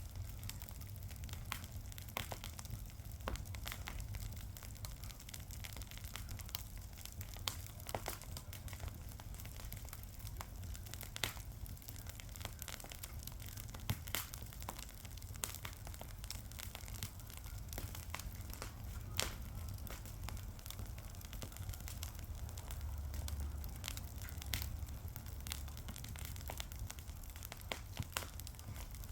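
Fire crackling, with irregular sharp pops and snaps scattered throughout over a low steady rumble.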